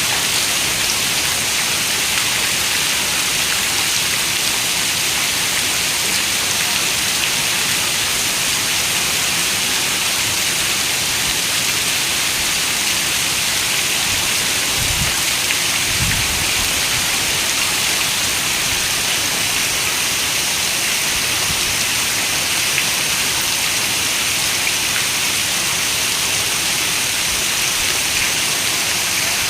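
Steady rain falling, an even hiss heaviest in the high range. Two brief low rumbles come about halfway through.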